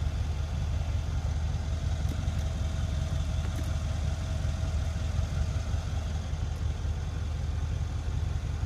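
Mercedes-Benz E63 AMG S-Model's twin-turbo V8 idling with a steady low rumble.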